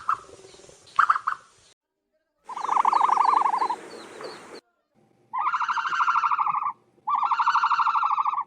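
Ostrich calls: two short calls, then three longer buzzy, rapidly pulsing calls of about a second and a half each, starting and stopping abruptly.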